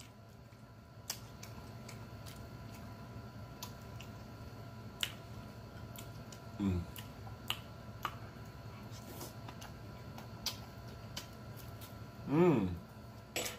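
Close-miked mouth sounds of a man chewing rice and sausage: scattered wet smacks and clicks. He gives a short "mm" about halfway through and a longer pleased "mmm" near the end.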